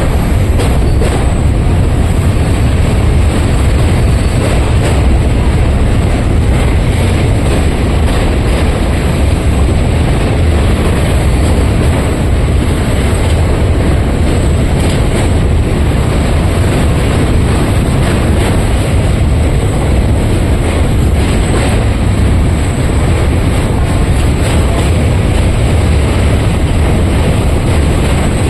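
Train running, a loud steady rumble with faint clatter from the wheels on the rails.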